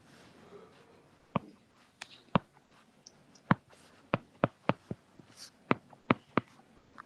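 About a dozen sharp, irregular clicks of a computer mouse and keyboard, some in quick runs, over faint room noise.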